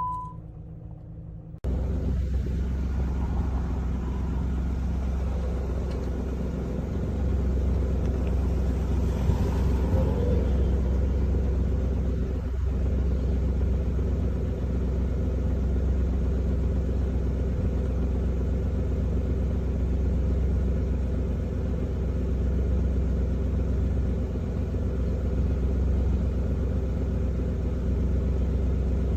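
Car engine running with a steady low rumble, coming in suddenly about two seconds in.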